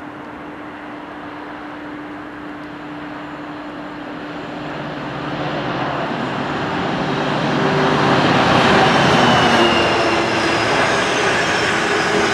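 Class 66 diesel locomotive with its two-stroke V12 engine hauling a container freight train past. It grows steadily louder as it approaches, is loudest about two-thirds of the way in as it passes, and the container wagons then keep rolling by.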